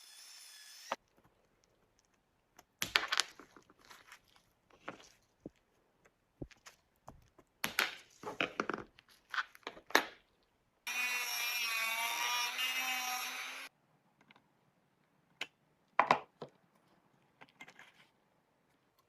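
Hand work on a small object: scattered clicks, knocks and scraping. In the middle a small motor whirs for about three seconds, its pitch wavering slightly, then stops suddenly.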